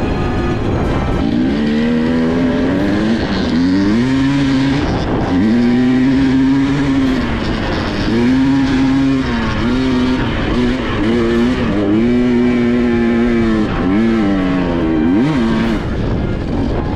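Dirt bike engine running under way, repeatedly revving up, holding and easing off as the rider works the throttle, over steady wind and road rush.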